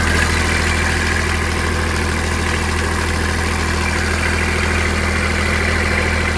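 Kubota tractor diesel engine idling steadily after a jump-start, kept running by a weight holding down the seat safety switch. It cuts off abruptly near the end.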